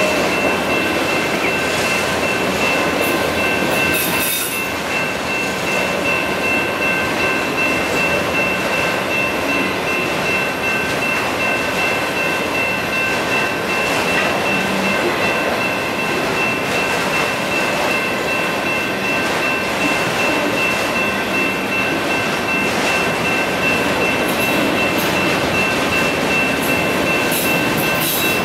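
Autorack freight cars of a passing freight train rolling steadily over the rails through a grade crossing, with a continuous rumble and clatter of wheels. The crossing's electronic bells ring throughout while the gates are down.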